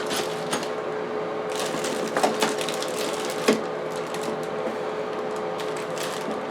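A fan running steadily with a constant hum, with a few light clicks and knocks a little after two seconds in and again at about three and a half seconds, from small parts being handled.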